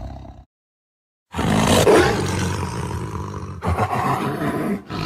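Leopard roaring and growling in a rough, rasping way. The sound cuts out completely for just under a second early on, then resumes.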